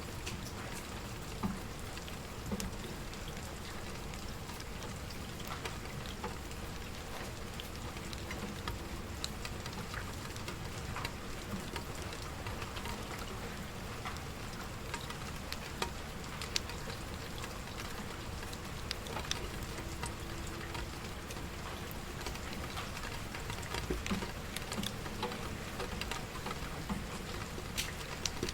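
Steady rain falling, with scattered sharp crackles and pops from burning wood in a fireplace.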